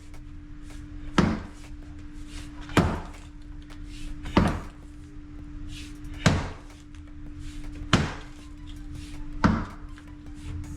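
Hammer blows struck at an even pace, about one every one and a half seconds, six in all, each with a short ringing tail. A steady low hum runs underneath.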